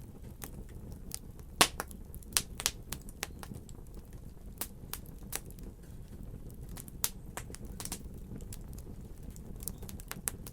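Fire crackling: irregular sharp pops and snaps over a steady low rumble, the loudest pop about one and a half seconds in.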